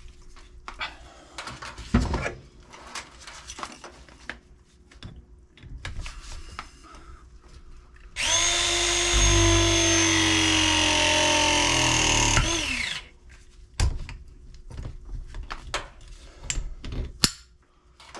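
A handheld power tool runs at steady speed for about four seconds, then winds down as it is released. Scattered knocks and clicks of tool and pipe handling come before and after.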